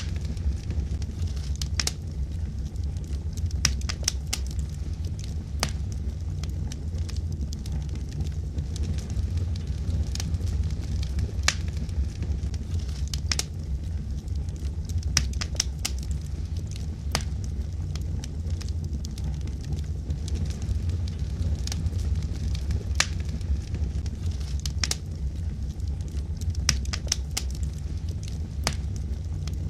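Logs burning in a wood fire: a steady low rumble of the flames with irregular sharp crackles and pops from the wood, several every few seconds.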